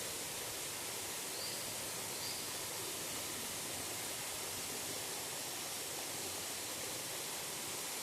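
Waterfall: falling water rushing with a steady, even roar. Two faint short chirps, likely a bird, come through about one and a half and two and a half seconds in.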